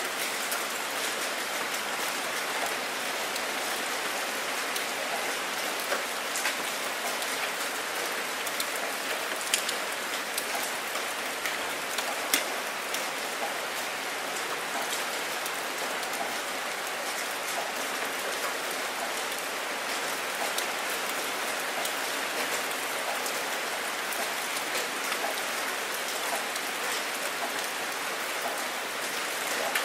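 Steady rain falling on open water: a dense, even hiss of many drops, with a few louder single drops about ten and twelve seconds in.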